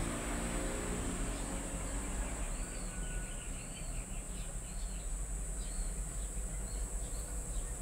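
Outdoor background: a bird repeating short high chirps, about one or two a second, from about a second and a half in, over a steady high insect drone and a low rumble.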